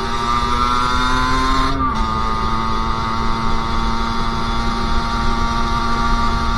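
Sherco SM-R 50's 50cc two-stroke single engine running at high revs under way, pitch rising slightly, then dipping briefly about two seconds in before holding steady.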